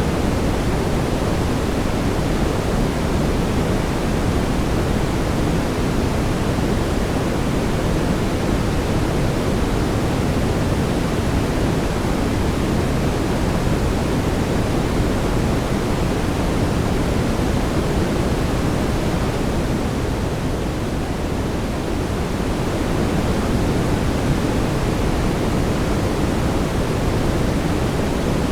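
Brown noise: a steady, even rushing hiss with most of its weight in the low end, dipping slightly in level about two-thirds of the way through.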